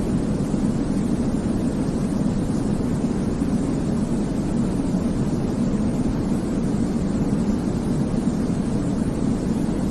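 Steady baby-sleep white noise, an even, unbroken rush weighted toward the low end, so it sounds like a deep rumble more than a bright hiss.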